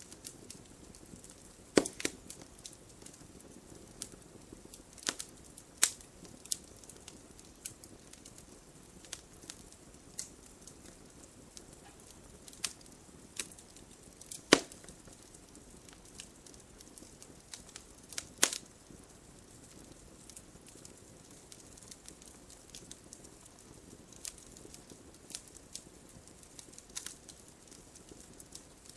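Wood fire burning in a fireplace: irregular sharp crackles and pops from the burning logs, the loudest about 2, 6, 14 and 18 seconds in, over a soft low hiss of the flames.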